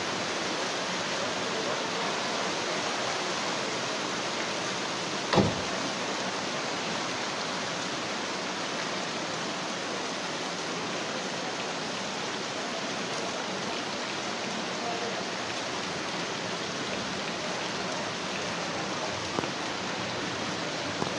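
Steady hiss of heavy rain and water running over a flooded street, with one sharp thump about five seconds in.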